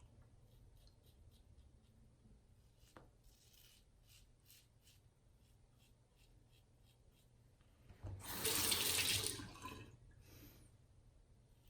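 Faint scratchy strokes of a stainless steel Karve Christopher Bradley safety razor with a Voskhod blade cutting through lathered stubble, several strokes a second. About eight seconds in, a sink tap runs for about two seconds.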